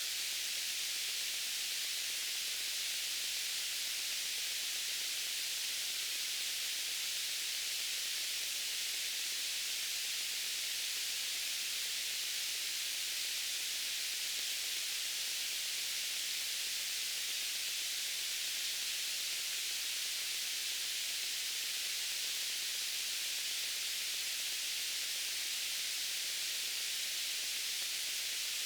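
Steady white noise: an even, unchanging hiss, bright and concentrated in the upper range.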